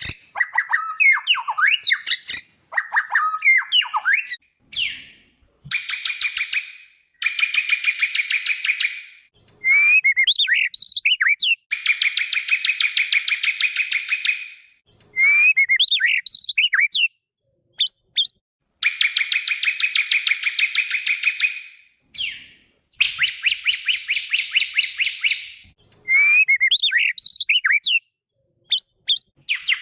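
White-rumped shama (murai batu) song: long, rapid, buzzy trills alternating with short, high, sweeping whistled phrases, repeated every few seconds with brief pauses between.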